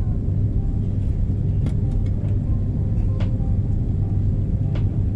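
Airbus A330 cabin noise after landing: a steady low rumble of the engines and cabin air with a constant hum, and a few faint clicks.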